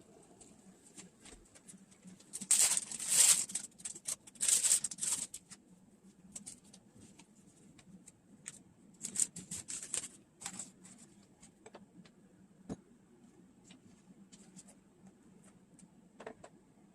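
Intermittent rustling and clicking of things being handled, in three short spells with single clicks between.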